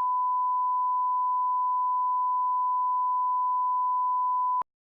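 A single steady electronic test tone at one pure pitch, held at an even level for about four and a half seconds, then cut off abruptly with a short click.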